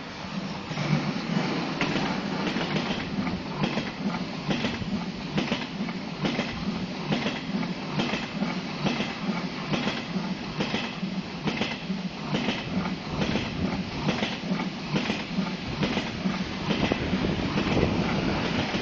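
KTX high-speed train passing close below. About a second in its steady low drone rises, and its wheels click over the rails in an even rhythm, roughly once every three-quarters of a second.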